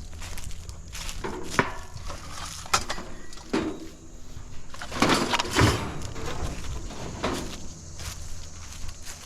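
Scrap metal being handled and loaded into a truck bed: a string of metal clanks and scrapes, the loudest cluster about five seconds in.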